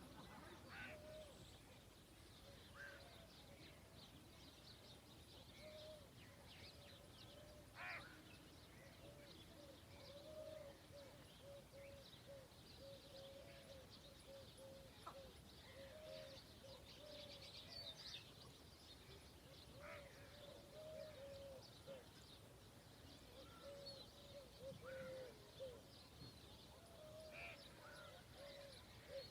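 Faint outdoor birdsong: a near-continuous series of short low repeated calls, with scattered brief higher chirps and whistles over a soft background hiss.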